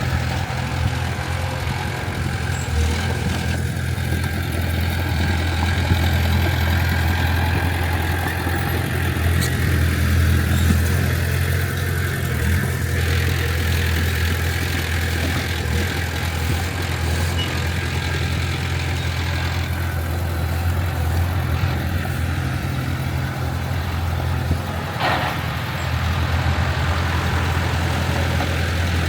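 Diesel engine of heavy earthmoving machinery running steadily with a deep low drone, a short sharp knock near the end.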